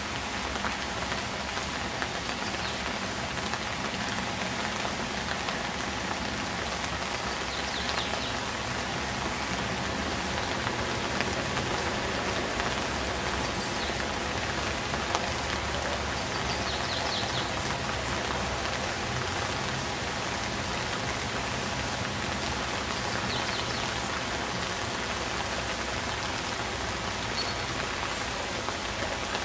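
Steady rain falling, an even continuous hiss of drops with no break.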